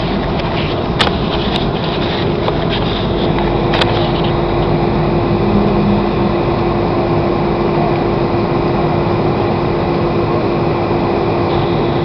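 Steady cabin noise of an airliner in flight, the engines and rushing air heard from inside the cabin, with a constant hum running through it. A couple of sharp clicks sound in the first few seconds.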